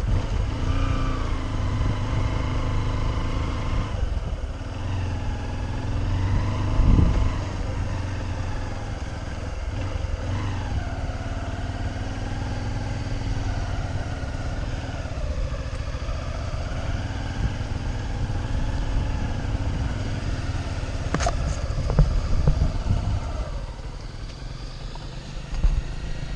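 Motorcycle engine running while riding, its pitch rising and falling as the throttle and speed change, over a heavy low rumble. A sharp knock is heard about twenty seconds in.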